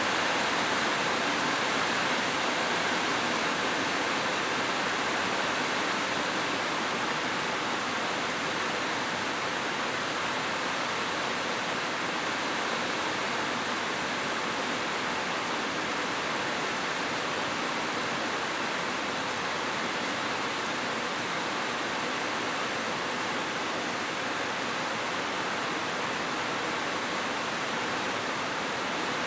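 Heavy rain falling: a steady, even hiss with no thunder and no single drops standing out.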